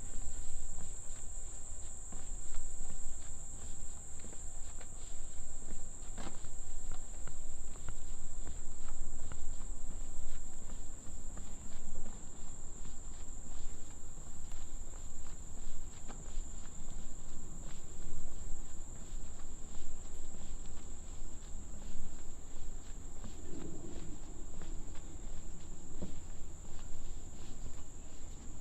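Steady high-pitched insect chorus, a continuous buzz that holds unchanged throughout, with irregular footsteps on the trail.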